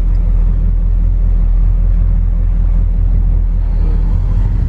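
Chevy 350 small-block V8 running at a steady speed, an even low rumble.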